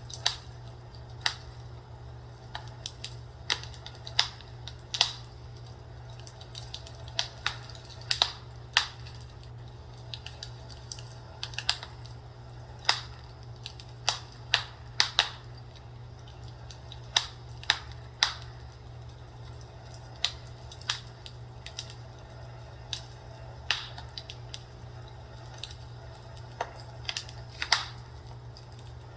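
Fireplace crackling: irregular sharp pops and snaps, some in quick clusters, over a steady low hum.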